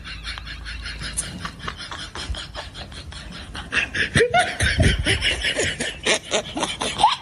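Laughing and giggling in quick rapid pulses, with short rising squeals about four seconds in and again near the end.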